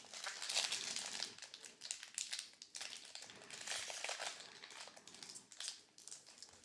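Foil booster pack wrapper crinkling and crackling in irregular bursts as it is handled.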